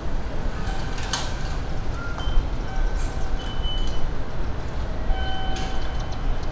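Hanshin 5500 series electric train running on the rails: a steady low rumble with a few short high squeals and about three sharp clicks from the wheels.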